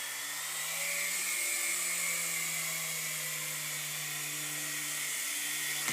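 Air Hogs toy RC helicopter hovering: its small electric motors and rotors give a steady high whine over a low hum.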